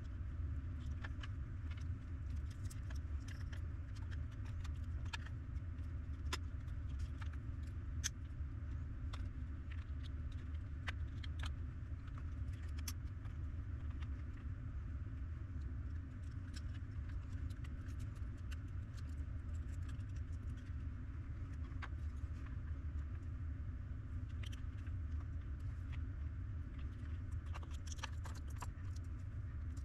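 Irregular light clicks and taps of small parts and tools being handled on a workbench, over a steady low hum.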